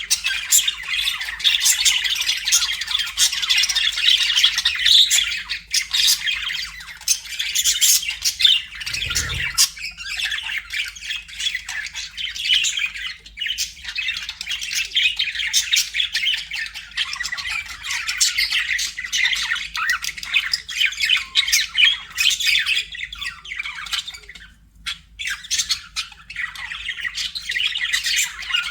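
Budgerigars chattering and squawking without a break, a dense warble of chirps, clicks and squeaks. There is a brief low thump about nine seconds in, and the chatter thins out for a moment near the end.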